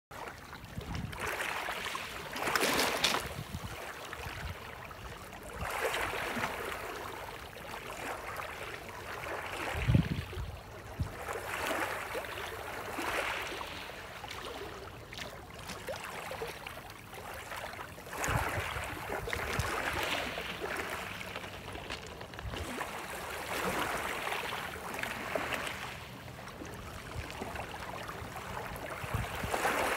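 Small waves washing in, the hiss of the water swelling and fading every few seconds, with a single low thump about ten seconds in.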